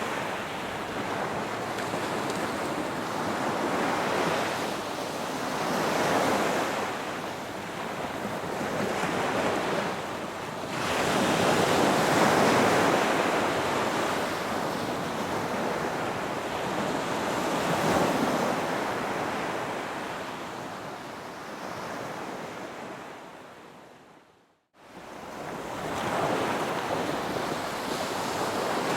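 Ocean surf: waves wash in and draw back, swelling and ebbing every few seconds. About three-quarters of the way through, the sound fades out for a moment, then swells back.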